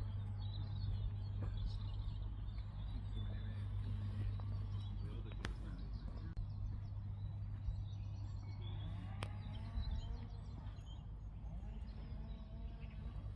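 Birds chirping and singing faintly over a steady low rumble, with a couple of sharp clicks.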